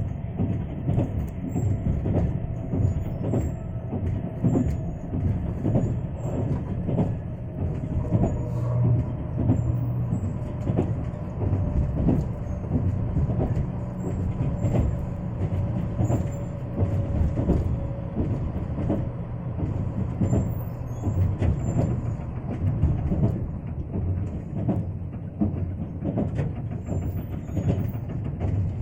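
Japanese limited express train running: a steady rumble with repeated clicks of wheels over the rails and a faint whine that slowly drops in pitch.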